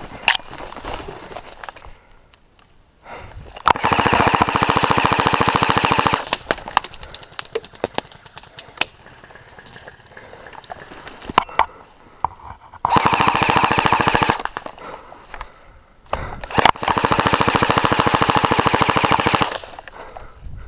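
Airsoft electric rifle firing three long full-auto bursts of two to three seconds each, with scattered single clicks and knocks between them.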